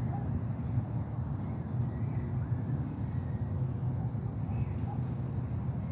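Wind buffeting the microphone in a steady, fluttering low rumble, with a few faint short bird chirps over it.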